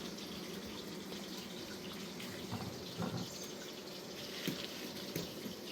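Steady rain falling, with a few separate drops tapping here and there.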